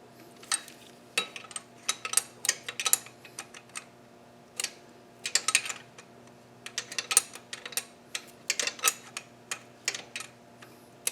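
Small metal parts and hand tools clinking and rattling against each other in short, irregular bursts.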